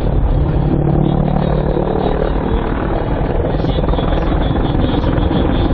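Helicopter in flight: rotor and engine noise running loud and steady, with a low hum that fades out about two and a half seconds in.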